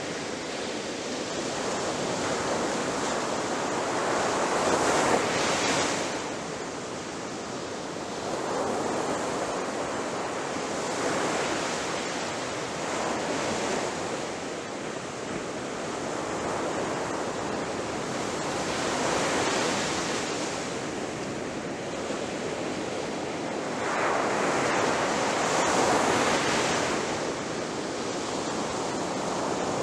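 Ocean waves breaking on a beach: a continuous rush of surf that swells and ebbs every few seconds, with the loudest breakers about five seconds in and again near the end.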